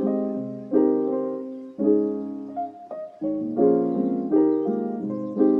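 Soft background piano music: chords struck about once a second, each fading away before the next.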